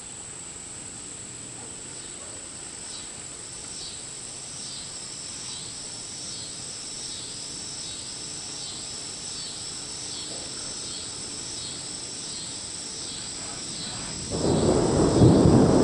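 Insects sing with a steady high buzz and a rhythmic chirp repeating a little more than once a second. About two seconds before the end, a loud rumble of thunder breaks in.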